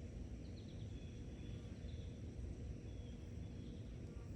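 Outdoor ambience: faint short bird chirps every second or so over a steady low rumble.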